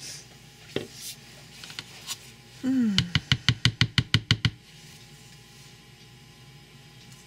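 A utensil squeaks briefly against a soap-mixing container, then taps quickly on it about a dozen times, some seven taps a second, for a second and a half, with a few lighter clicks before.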